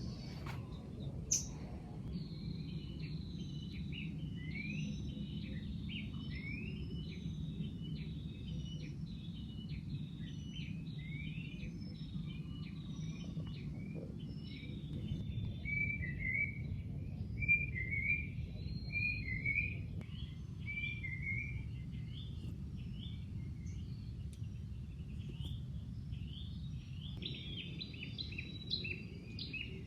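Night forest chorus of many overlapping short, high chirping calls, often in quick pairs, over a steady low rumble.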